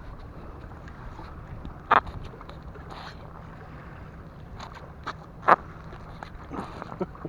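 Steady wind and surf noise with a few sharp clicks and taps, the loudest about two seconds in and about five and a half seconds in.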